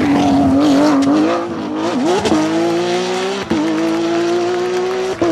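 Porsche 911 GT3 rally car's flat-six engine running hard at high revs, its pitch held fairly steady. About two seconds in the pitch dips and climbs back, and there are two sharp momentary cuts later, typical of quick gear changes.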